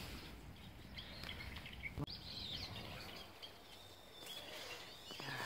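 Outdoor ambience with small birds chirping faintly several times, and a single sharp click about two seconds in.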